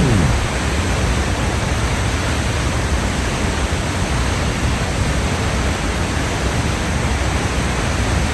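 Waterfall in heavy flow, a steady, even rush of falling water. A falling musical tone fades out right at the start.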